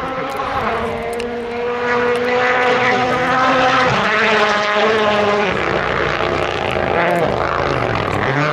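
Rally car engine running hard on a stage, its note holding steady, then dropping about five and a half seconds in and dipping and climbing again near the end.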